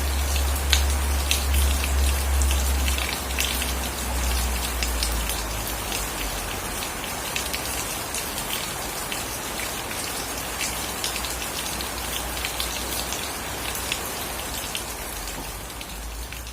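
Steady heavy rain falling, with many individual drops ticking sharply on surfaces. A deep low rumble sits under it for the first few seconds, then weakens.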